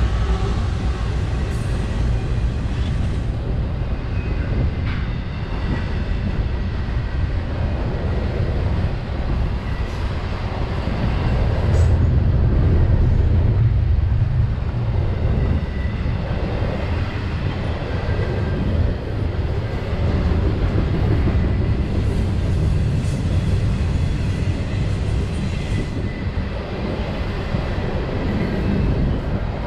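Intermodal freight train rolling past: a steady low rumble of steel wheels on the rails, with a few sharp clicks and faint high ringing tones.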